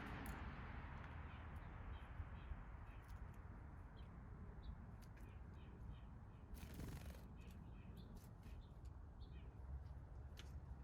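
Faint backyard bird calls, short chirping notes in several quick series, over a low outdoor rumble, with a brief rushing noise about seven seconds in.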